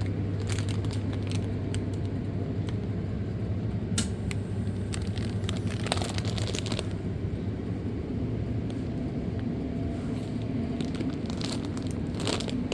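A steady low hum of shop background noise, with scattered crinkling and clicking of plastic packaging being handled.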